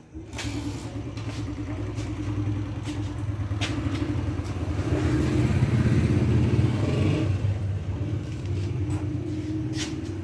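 Motorcycle engine starting up and running. It picks up to a louder, higher run about halfway through, then drops back to a steady idle.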